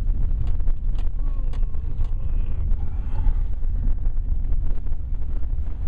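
Low, steady rumble of a vehicle driving, heard from inside the cabin, with a few light clicks.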